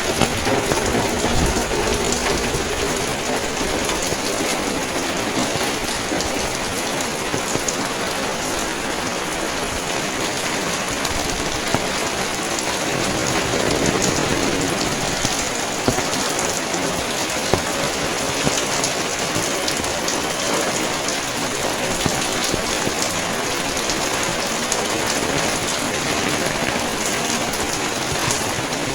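Steady rain falling and pattering on surfaces, with scattered sharper drops ticking close by.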